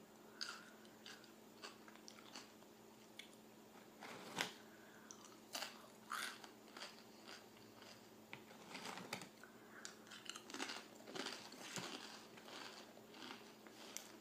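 Close-up chewing and biting of a grilled cheese sandwich: short wet mouth clicks and crunches of toasted bread, scattered at first and coming thicker in the second half.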